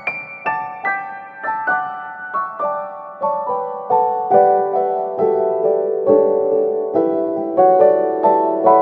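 Background piano music: evenly paced single notes, about two to three a second, in a melody that steps downward in pitch and grows louder about four seconds in.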